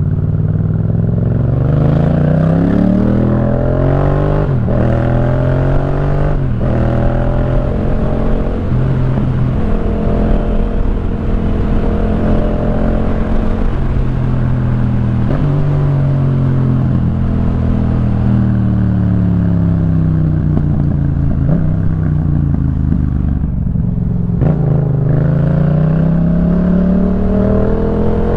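Yamaha MT-07's 689 cc parallel-twin engine through a Jeskap K4 full aftermarket exhaust, under way: it revs up through quick gear changes, holds a steady cruise, winds down slowly, then pulls up again near the end.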